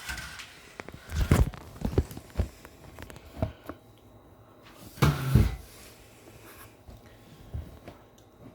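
Hotpoint NSWR washing machine making irregular knocks and thumps, the loudest a heavy thud about five seconds in. This is the unexplained noise the owner is asking about.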